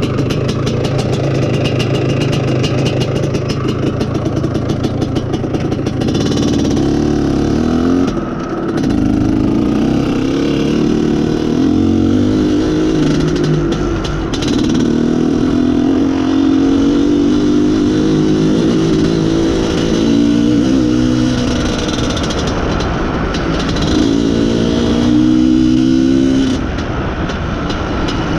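IZh Planeta Sport's single-cylinder two-stroke engine running, steady at first, then revving up and down several times, with brief drops in level about eight seconds in and near the end. Its carburettor's mixture screw is being richened because a lean mixture makes the engine die when the throttle is closed.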